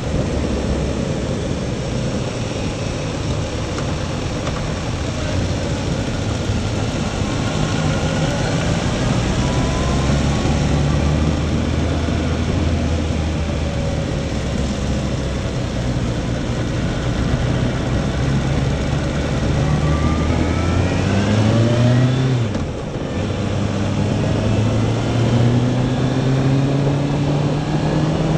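Motorcycle engine running under the rider, with wind rush over the microphone. About two-thirds of the way through it accelerates with rising pitch, drops briefly for a gear change, and climbs again.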